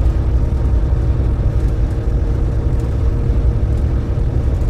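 A truck's engine and road noise heard inside the cab while driving: a steady low rumble with a faint hum above it.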